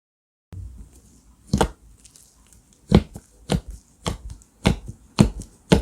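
Slime being pressed and worked by hand, making a series of sharp clicking pops about twice a second.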